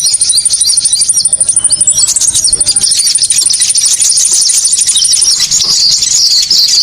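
Konin bird calls for luring: rapid, repeated high-pitched chirping notes, loud and continuous, with a fast, even high trill over them that stops about five seconds in.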